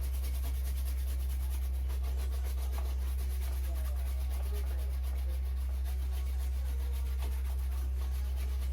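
Steady low electrical hum, with a faint, fast scratchy rubbing over it.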